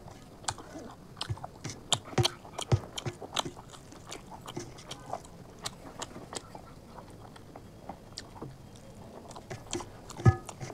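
Chewing a mouthful of rice and chicken curry: wet smacking and clicking mouth sounds, irregular, busiest in the first few seconds, with a louder cluster near the end.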